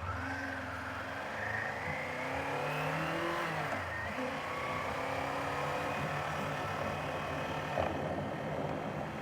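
Kawasaki Z500 parallel-twin engine accelerating under a riding motorcycle, rising in pitch for the first few seconds, dropping back about four seconds in, then running steadily.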